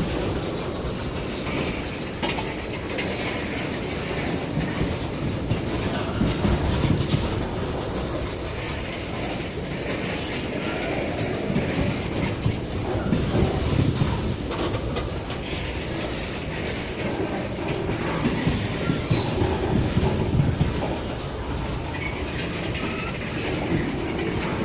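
A crude oil freight train's tank cars rolling past at a steady pace, their wheels clicking over the rail joints in a repeating clickety-clack over a continuous rumble.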